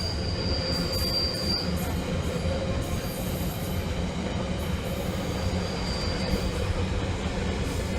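Train running at a station platform: a steady low rumble with a thin high squeal that fades out about a second and a half in and comes back faintly around five to six seconds.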